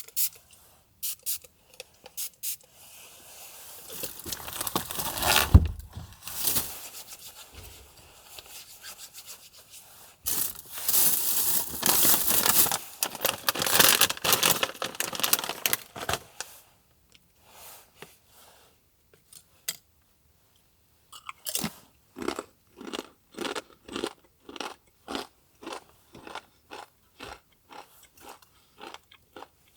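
Someone chewing crunchy food close to the microphone; in the last third the bites settle into an even rhythm of about two a second. Before that come longer stretches of louder rustling or scraping noise.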